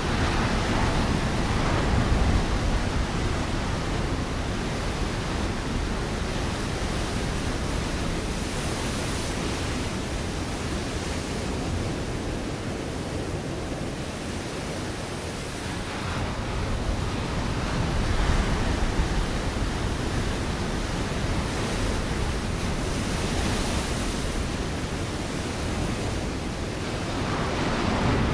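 Ocean waves breaking against a rocky shore: a continuous rush of surf that swells with a wave near the start, again around the middle, and again near the end.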